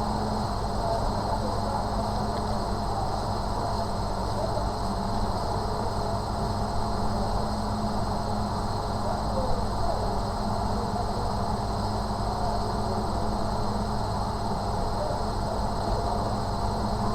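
Steady background hum with an even rushing noise and a constant high faint tone, unchanging throughout.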